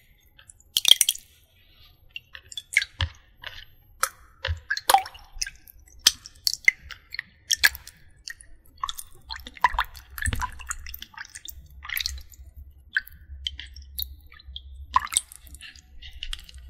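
Close-miked wet squishing and dripping: irregular short wet clicks and crackles, some louder than others, with no steady rhythm.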